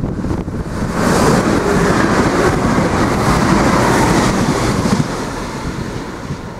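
Irish Rail 22000 Class diesel multiple unit passing close by at speed: a loud rush of wheel, rail and engine noise that swells about a second in and drops abruptly about five seconds in, with wind buffeting the microphone.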